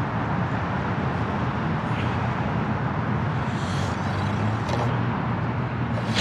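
Steady low motor-vehicle rumble with a constant hum.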